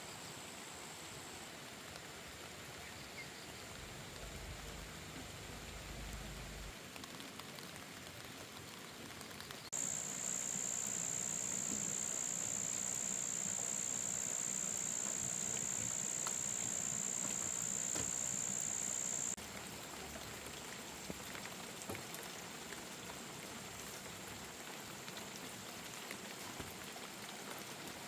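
Steady rain falling, an even hiss. About ten seconds in, a high steady buzz starts abruptly and becomes the loudest sound; it runs for about nine seconds and then cuts off suddenly.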